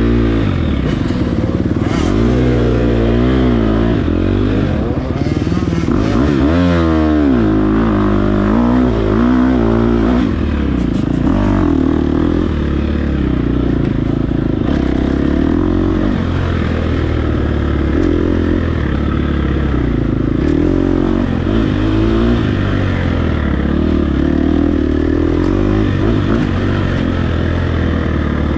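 Dirt bike engine under racing load, its pitch rising and falling again and again as the throttle opens and closes, with the quickest swings in the first ten seconds.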